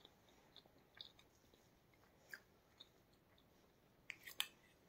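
Faint chewing and soft mouth clicks from eating a spoonful of hot semolina halwa, with a few sharper little clicks about four seconds in.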